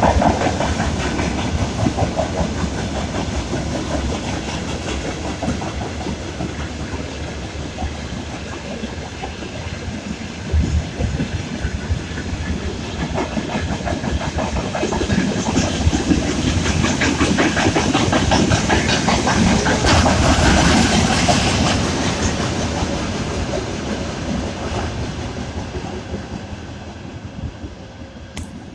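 Wagons of a mixed freight train rolling past, with a steady rumble and the rapid clickety-clack of wheels over rail joints. The sound fades over the last few seconds as the end of the train moves away.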